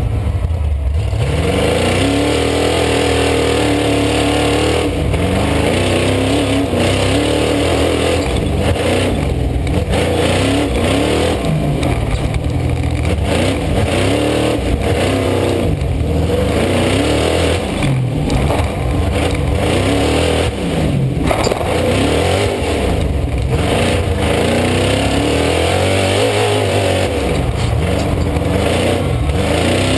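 Race vehicle's engine heard from on board, revving up and falling back again and again as it is driven hard, rising and falling every second or two without a break.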